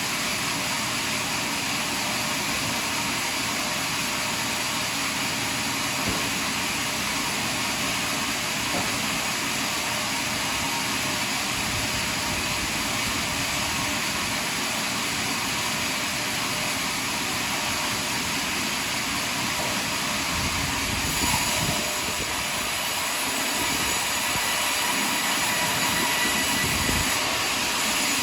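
Sawmill running steadily as it saws through a large log. About twenty seconds in, a faint high tone joins the steady noise.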